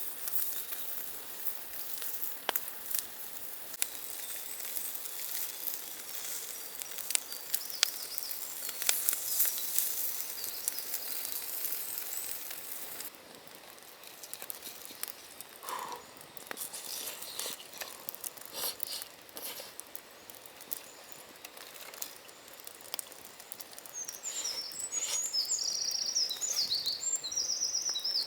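Forest ambience full of irregular crackling and ticking that drops off suddenly about halfway through, leaving fainter ticks. A small songbird sings a quick twittering song in the last few seconds.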